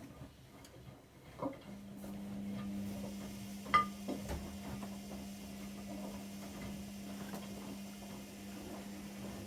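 AEG Öko-Lavamat washing machine running its wash cycle. A click is followed about two seconds in by a steady low hum that keeps on, and a single sharp metallic clink comes about four seconds in.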